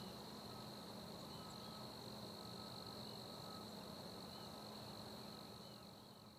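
Faint chorus of insects trilling steadily in a high, even pitch, fading out near the end.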